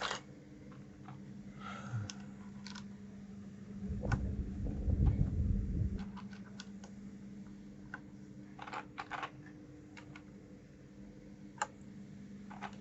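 Irregular clicks from the keys and keycaps of a 1STPLAYER DK5.0 mechanical keyboard, with a louder low rumble of handling for about two seconds midway.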